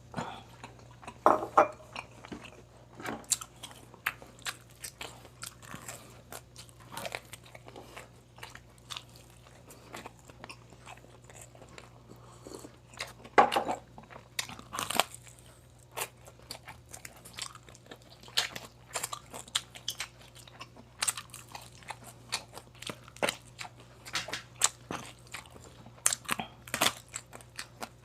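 Close-miked biting and chewing of crunchy fried pork, a run of irregular crackly crunches with louder bites about a second and a half in and again about halfway through.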